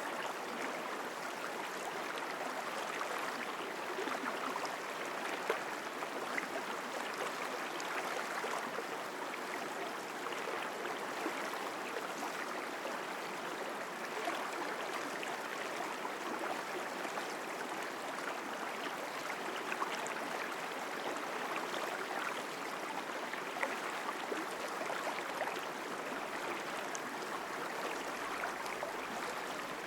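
Mountain stream flowing over rocks: a steady, strong rush of water with small splashes scattered through it.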